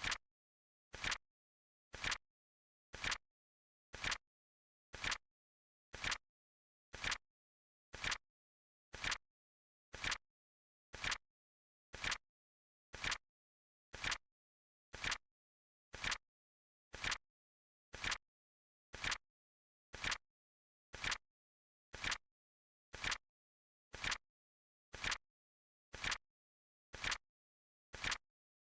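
Flip clock countdown timer clicking, one short sharp click each second with silence between. The clicks alternate slightly in loudness.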